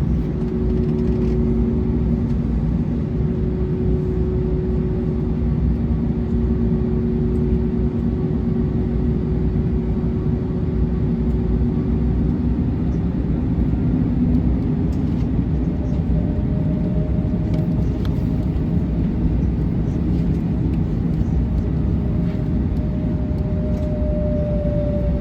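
Airbus A321neo cabin noise while taxiing after landing: a steady drone of the idling engines and air system with low steady hums. A higher hum joins about two-thirds of the way in.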